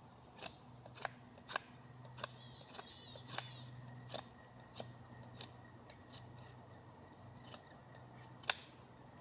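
Blade strokes on a wooden stick: irregular sharp scrapes about every half second to second, the strongest near the end, as the wood is shaved into dry strips for kindling.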